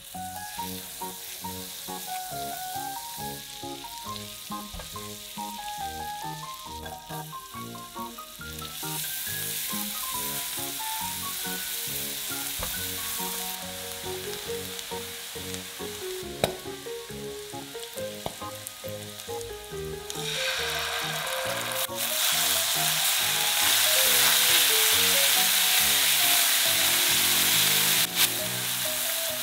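Butter and minced garlic sizzling in a frying pan, quietly at first and much louder from about twenty seconds in.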